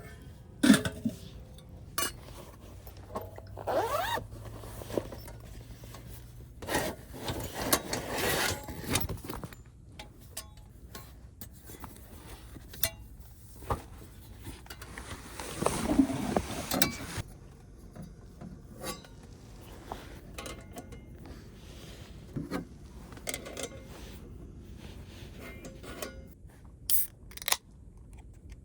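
Cooking gear being handled during camp meal preparation: scattered clinks and knocks, with two longer bouts of scraping and rubbing, about seven and fifteen seconds in.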